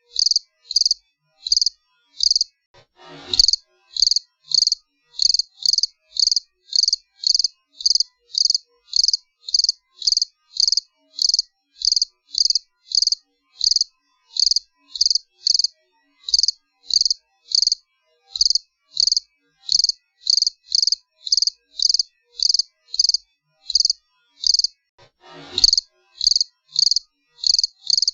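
Cricket chirping in a steady, even rhythm of high chirps, about two a second. It breaks off briefly twice, about three seconds in and near the end, and each break holds a short, faint falling sound.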